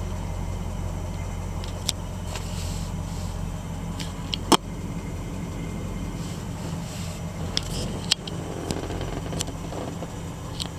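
1966 Ford F100 pickup engine idling steadily shortly after a cold start, with a few sharp clicks or knocks over it; the loudest comes about four and a half seconds in.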